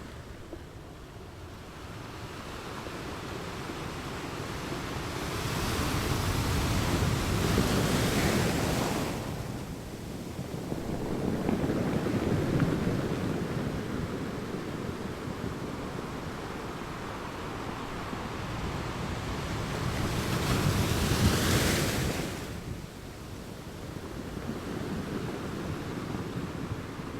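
Ocean waves breaking and washing on the shore. The surf swells and fades in three surges, the loudest about three quarters of the way through.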